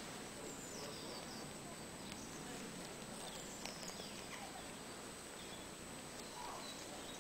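Faint outdoor ambience: a steady hiss with a few small birds chirping now and then.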